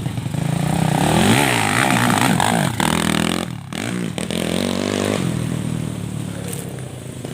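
Honda XRM underbone motorcycle's single-cylinder four-stroke engine revving, its pitch rising and falling over and over. It drops out briefly about three and a half seconds in, then runs steadier and fades.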